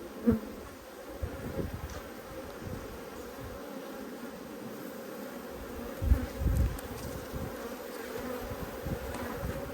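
Honeybees humming steadily around an open Langstroth hive during a frame inspection. There are a few low thumps about six seconds in.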